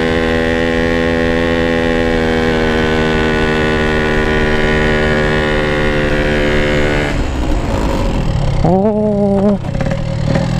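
Yamaha RX-King two-stroke single-cylinder engine running at a steady cruising speed, holding one even note; about seven seconds in the steady note breaks off and the sound turns rougher and uneven.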